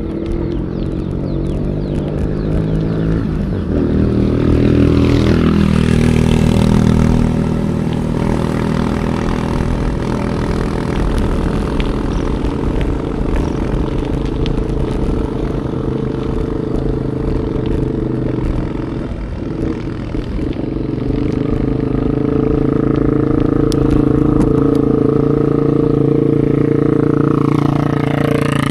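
Motor vehicle engines running close by, their pitch shifting as they speed up, slow down and pass, with a sweep in pitch near the end.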